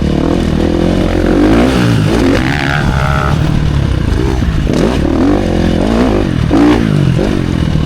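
Dirt bike engine revving up and down again and again, its pitch climbing and dropping in quick sweeps as the throttle is worked.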